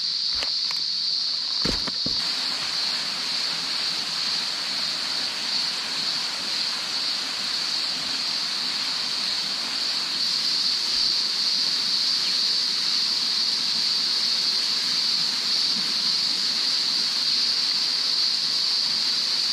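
Cicadas droning in a loud, steady chorus over the running water of a small waterfall and creek. A few footsteps fall in the first two seconds.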